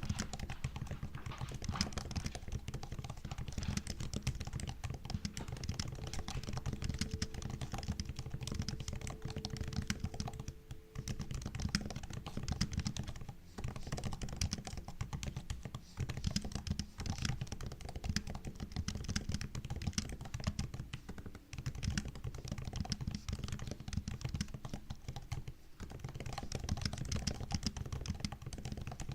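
Typing on a MacBook's built-in keyboard: a steady stream of quick key clicks and taps, broken by a few short pauses.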